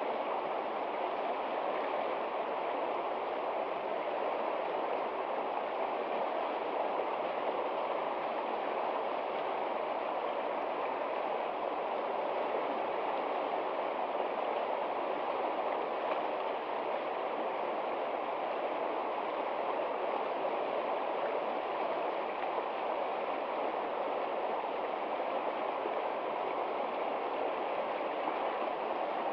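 Water flowing steadily in a stream, an even, unbroken sound with no single splash or drop standing out.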